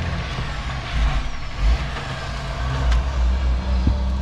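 Heavy truck traffic driving past, a steady low rumble of engines and tyres, with a couple of short clicks.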